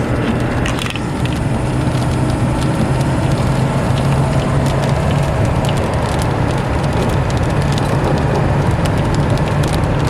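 Inside a moving car: steady engine and road noise with a low drone, sprinkled with scattered light clicks and crackles.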